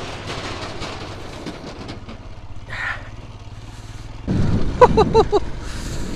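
Royal Enfield Scram 411 single-cylinder motorcycle engine running as the bike rides off. It is fairly quiet at first, then much louder and rougher with rumble and wind about four seconds in.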